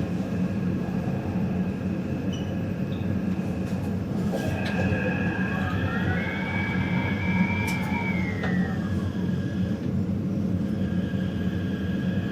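Taipei Metro Zhonghe–Xinlu line train running: a steady rumble of wheels on track, with the electric traction motors' whine gliding up in pitch, holding, then gliding back down about midway.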